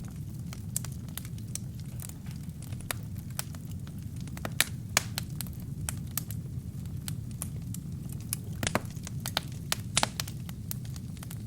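Wood fire burning in a fireplace, crackling with frequent irregular pops and snaps over a low steady rumble of the flames, a few pops louder than the rest.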